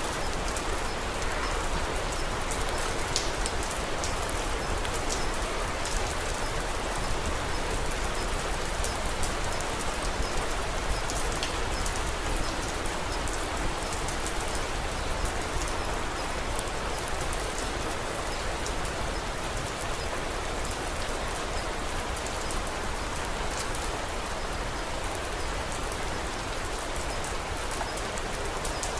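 Steady rain falling, an even hiss with a low rumble beneath, with scattered faint sharp ticks of a crackling wood fire.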